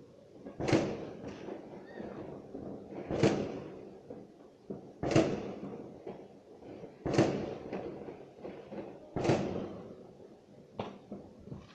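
Fireworks going off: six sharp bangs about two seconds apart, each trailing off briefly.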